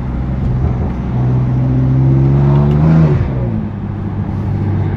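BMW F80 M3 Competition's straight-piped S55 twin-turbo inline-six pulling through the city, its note climbing gently for about two seconds and then falling away sharply about three seconds in.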